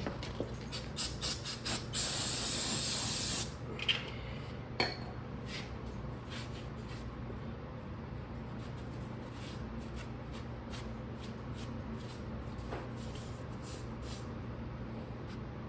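Aerosol can of brake cleaner spraying: a few short spurts, then one longer spray of about a second and a half. A steady low hum runs underneath.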